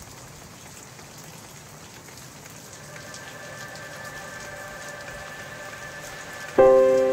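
Steady rain falling. Faint music comes in about halfway, and a loud chord strikes near the end.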